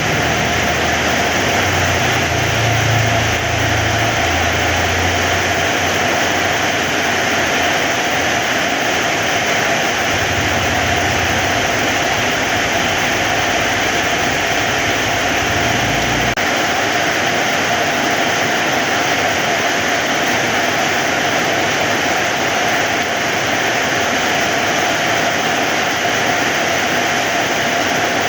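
Heavy rain falling steadily, a dense even hiss. A low rumble sits under it for the first half and stops about sixteen seconds in.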